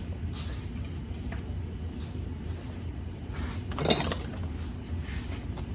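Small metal hand tools clinking and rattling as they are handled, with one sharp, ringing metallic clink about four seconds in, over a steady low hum.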